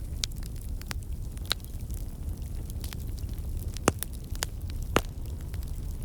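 Wood fire crackling in a fireplace: a steady low rumble of burning with scattered sharp pops and snaps, two louder pops about four and five seconds in.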